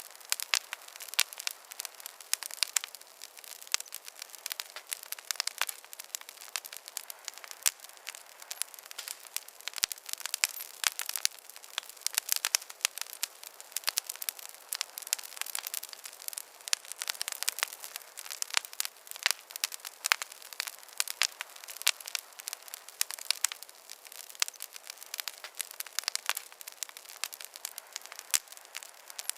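Wood campfire crackling: an irregular, dense run of sharp snaps and pops over a faint hiss.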